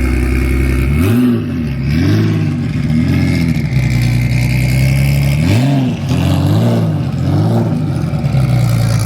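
A car engine idling, then revved in quick throttle blips: about three blips a second in, and about three more past the middle, each rising and falling back before it settles to idle again.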